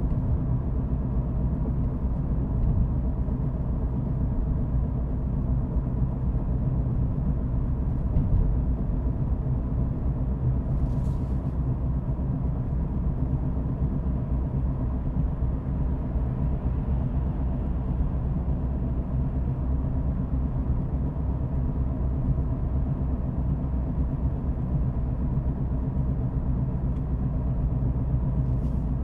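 Car cabin road noise while driving: a steady low rumble of engine and tyres, with a brief faint hiss about eleven seconds in.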